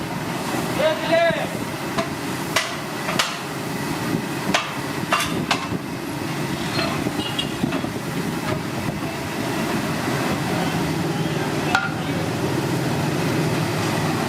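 A few sharp knocks or clatters, irregularly spaced through the first six seconds, over a steady background din, with a brief voice about a second in.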